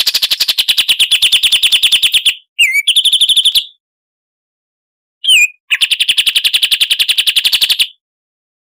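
Recorded songbird song used as a masteran for contest birds: rapid, even trills of about fifteen notes a second on one high pitch, in three phrases of one to two seconds separated by silences. Short falling whistles come just before the second and third phrases.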